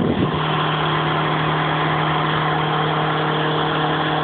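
Renault 19 turbo diesel's four-cylinder engine held at steady high revs in a burnout, a constant drone that neither rises nor falls, after a brief wobble in pitch right at the start.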